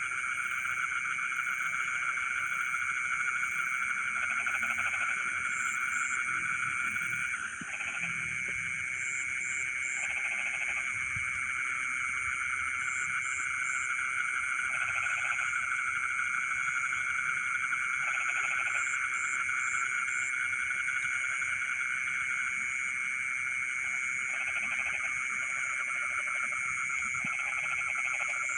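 Dense, steady chorus of frogs calling in a flooded rice field, with short lower croaks breaking through every few seconds. A continuous high insect trill runs over it.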